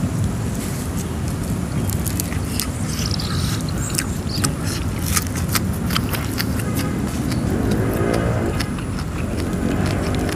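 Close-up eating sounds: wet chewing and lip-smacking clicks over a steady low rumble, with a brief rising-and-falling pitched tone about eight seconds in.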